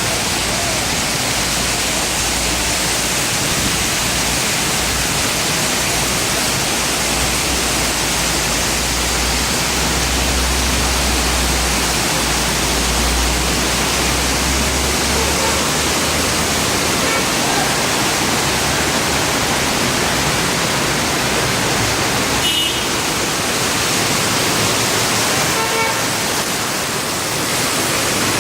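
Heavy rain pouring down in a steady, loud hiss, with a low rumble for several seconds near the middle.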